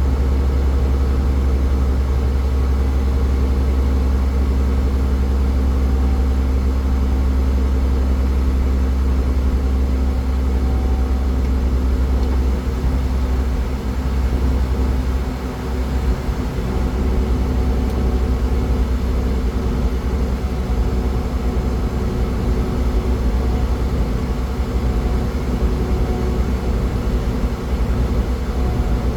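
A car travelling at highway speed: a steady low rumble of engine and road noise, with a brief dip about halfway through.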